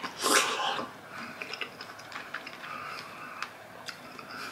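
A loud, juicy bite into a ripe strawberry in the first second, followed by close-up chewing with many small wet mouth clicks.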